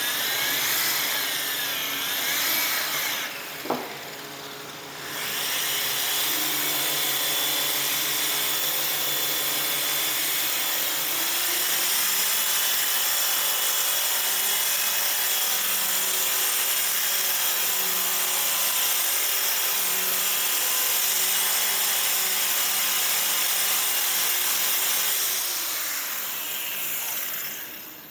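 Power sander running against a metal aircraft exhaust pipe, steady and loud, with a short stop and a click a few seconds in before it starts again. The pipe dulls the sandpaper almost at once and barely cuts, which the worker takes as a sign it is Inconel rather than stainless.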